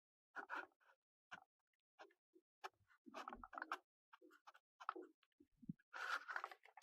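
Faint handling sounds of Play-Doh modelling clay and plastic tools: scattered clicks and short rustles, irregular, with pauses between.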